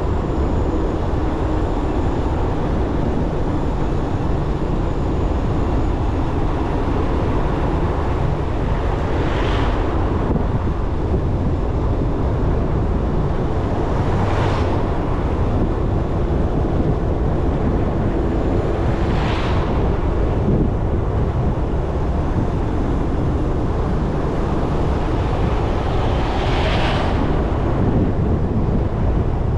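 Motorcycle riding along a road, with steady wind rumble on the microphone and the engine and tyres underneath. Four brief hissing swells come a few seconds apart.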